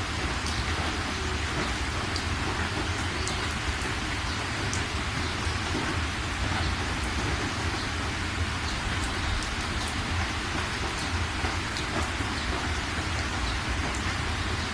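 Steady rain falling, with separate drops ticking sharply over an even hiss and a low steady rumble underneath.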